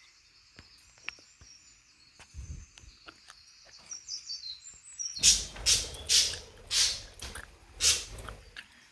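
Pet budgerigars chattering softly in a high warble. About five seconds in this gives way to a run of loud, harsh, scratchy bursts.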